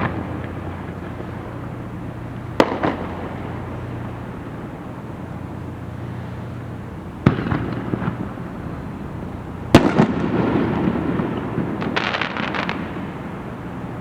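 Aerial fireworks shells bursting: three sharp booms a few seconds apart, the third the loudest with a rumbling tail, then a quick run of crackles about twelve seconds in. A steady low hum runs underneath.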